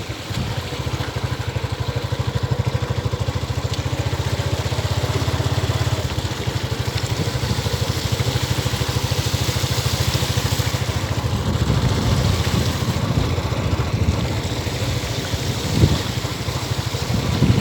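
An engine runs steadily at an even speed, with a fast, regular firing beat throughout.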